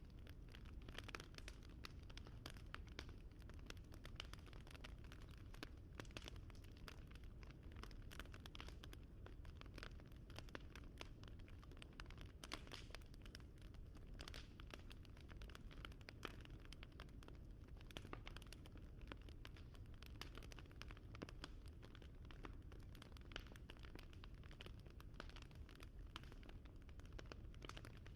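Wood fire crackling faintly: frequent small, irregular pops and snaps over a low steady rumble.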